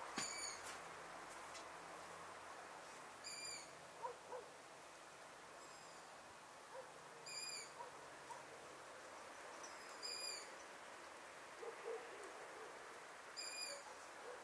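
A night bird calling one short, high, clear note, repeated five times about every three seconds, over a faint steady hiss.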